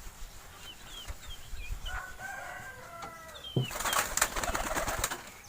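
A pigeon's wings flap and clatter for about a second and a half near the end. This is the loudest sound. Before it come a few short, high, falling chirps from small birds and a drawn-out rooster crow in the background.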